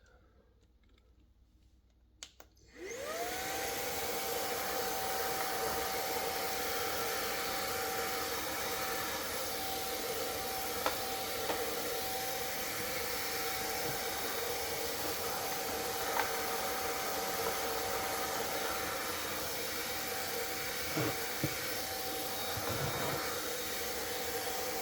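Klarpul 550 W cordless stick vacuum clicked on, its motor whining up to speed about three seconds in and then running steadily with a high hum over its suction noise. A few sharp ticks break in as it cleans baseboards.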